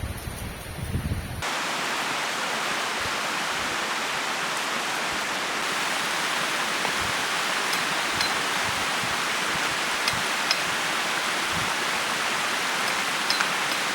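Wind buffeting the microphone, then, from about a second and a half in, the steady rush of a flowing river, with a few faint clicks in the second half.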